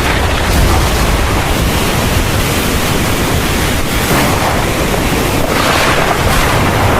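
Heavy thunderstorm rain pouring steadily, with a deep low rumble underneath and a brief swell in the rain's hiss about five and a half seconds in.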